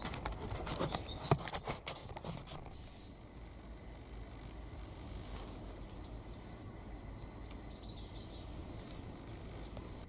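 Clicks and rustling from handling for the first couple of seconds, then a small bird giving short, high chirps about a second apart.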